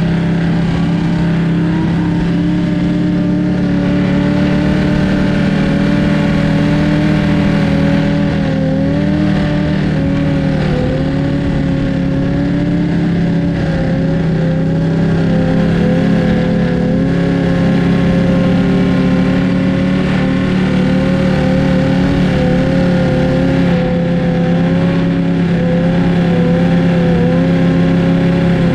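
Motorcycle engine running at steady revs while cruising, its pitch wavering only slightly, with rushing wind noise underneath.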